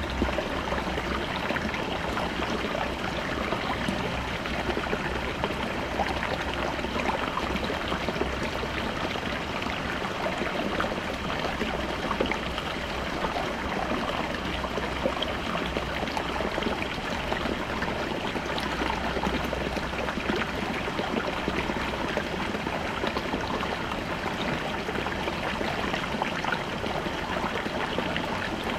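Small shallow brook babbling over rocks: a steady rush of running water with many small splashes and trickles, even and unchanging.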